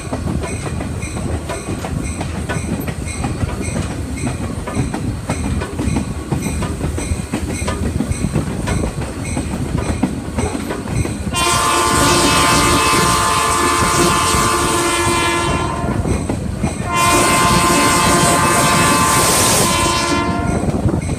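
Train rolling along the track, a steady rumble with clickety-clack from the wheels. About halfway through, the locomotive's air horn sounds a long blast of several tones together, then a second long blast after a short break, and a third begins right at the end.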